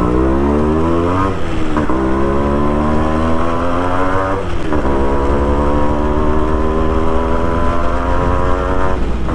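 Two-stroke motorcycle engine accelerating up through the gears. Its pitch climbs in each gear and drops at the shifts, about a second, two seconds and four and a half seconds in, then holds a slowly rising note.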